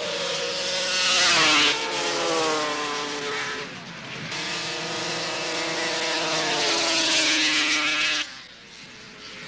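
Two-stroke racing snowmobile engines at full throttle on a grass drag pass, their pitch sliding down in two long stretches. The sound cuts off suddenly about eight seconds in.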